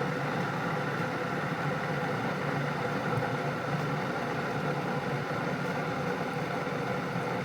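Keurig K-Compact coffee maker running steadily as it heats its water after being switched on, a continuous mechanical hum with hiss, near the end of its warm-up.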